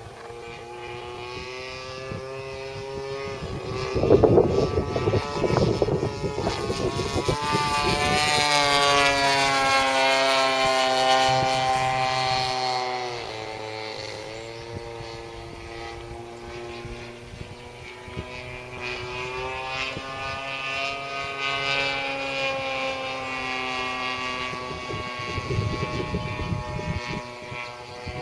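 Radio-controlled model airplane's motor in flight, its note slowly rising and falling in pitch as the plane passes and the throttle changes. It is loudest about a third of the way in and dips sharply near the middle before climbing again, with low rumbling gusts twice.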